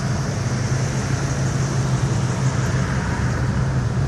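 A classic car's engine running steadily at low speed as it cruises slowly past, a constant low drone.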